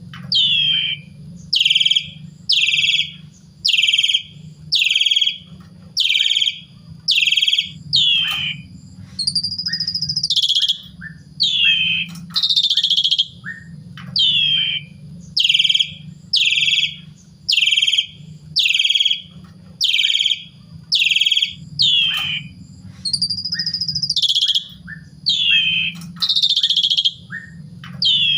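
Pied starling (jalak suren) singing: a steady run of loud, falling whistled notes about once a second, broken twice by a longer note that rises and falls. A steady low hum lies underneath.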